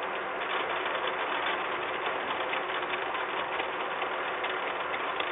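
Steady rain falling, a dense, even patter of fine drop ticks close to the microphone.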